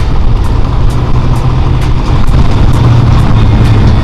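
Race truck engine running loud and steady with a deep rumble, with a light tick about twice a second.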